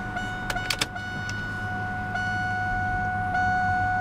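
The 2000 Chevrolet Camaro SS's 5.7-litre LS1 V8 idling steadily, heard from inside the cabin, with a steady high electronic warning tone from the car sounding over it. A few light clicks come in the first second.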